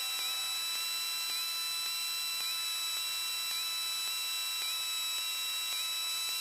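Steady electronic hiss and whine on the aircraft's radio and intercom audio feed between transmissions, with a faint tone that dips briefly about once a second.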